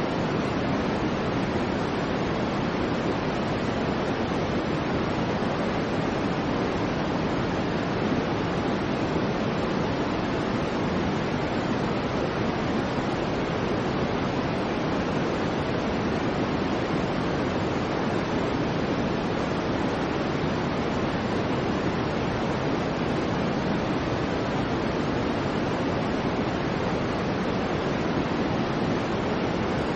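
Soft white noise for a baby's sleep: a steady, even hiss weighted toward the lower tones, holding the same level throughout.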